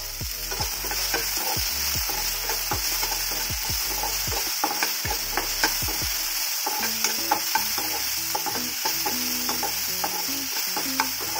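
Chopped tomatoes, onion and curry leaves sizzling in hot oil in a kadhai, with a spatula stirring and scraping the pan in frequent sharp clicks over a steady sizzle.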